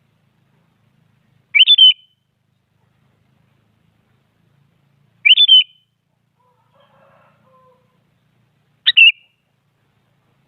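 Sooty-headed bulbul (kutilang) calling: three short phrases a few seconds apart, each a quick run of two or three high notes.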